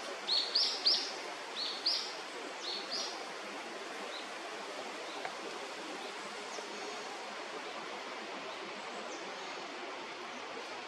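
A bird gives a quick series of short, high chirps in the first three seconds, then falls silent, leaving a steady background hiss.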